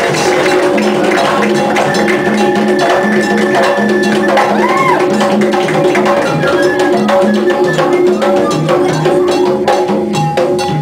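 Percussion-led music: drums and sharp wood-block-like strokes in a dense, fast pattern over held tones and a pulsing low line.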